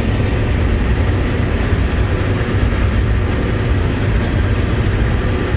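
Farm tractor running steadily with a constant low rumble while chopping a load of forage.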